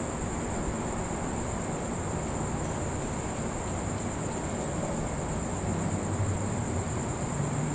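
Crickets trilling in one steady high continuous note, over a low rumble that swells slightly about six seconds in.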